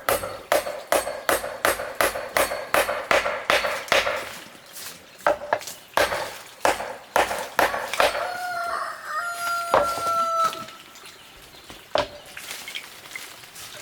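A rooster crowing once, a long call about eight seconds in. Before it comes a run of rapid knocking strokes, about three a second, for the first few seconds.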